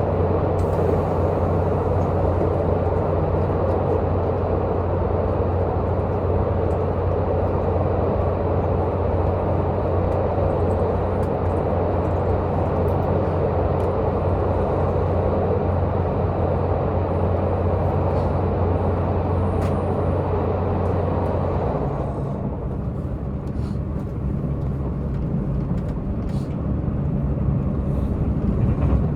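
Diesel multiple-unit express train running at speed, heard from inside the passenger car: a steady diesel engine drone under a rush of wheel and rail noise. About 22 seconds in the engine note changes and the rushing eases a little, then slowly builds again.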